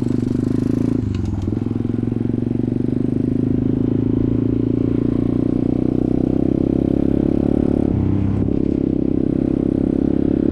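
Off-road motorcycle engine running steadily under way, its note dipping briefly about a second in and again at about eight seconds as the throttle changes.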